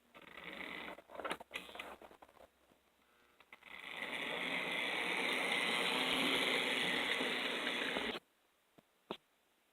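Märklin HO-scale 0-8-0 model steam locomotive's AC motor and gearing running with a steady whir for about four seconds, then cutting off suddenly; scattered clicks before and after.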